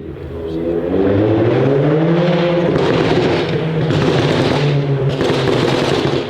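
A car's engine and exhaust revving hard. The pitch climbs over the first two seconds, dips briefly about halfway, then holds high before easing off near the end.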